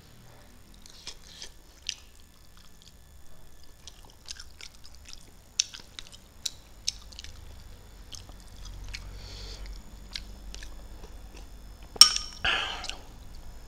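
Close-miked chewing of fish eaten by hand, with many small wet mouth clicks and smacks scattered throughout. Near the end a spoon clinks sharply against a metal bowl, the loudest sound, followed by a brief noisy scrape.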